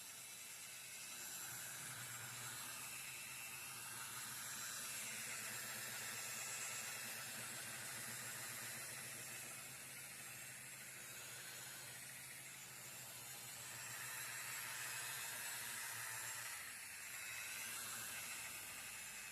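Electric car polisher running with its pad on the paint, compounding out swirl marks: a faint steady hiss over a low motor hum, swelling and easing as the pad is worked across the panel.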